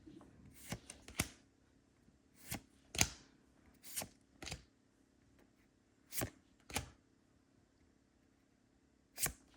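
Trading cards being flicked and slid one at a time off a freshly opened Pokémon booster pack: a series of short, separate card snaps with quiet gaps between.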